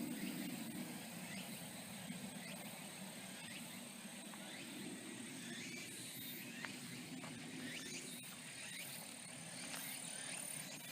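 Outdoor forest ambience: insects chirping with a steady high thin tone and scattered short chirps, over a low rumble of distant traffic.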